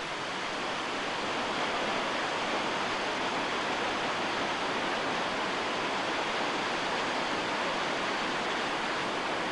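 Waterfall and whitewater rushing, a steady even noise.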